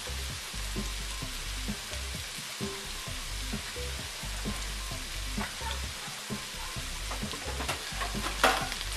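Sliced mushrooms and onions sizzling steadily in a nonstick frying pan, with scattered small crackles. A short, sharp clatter comes near the end.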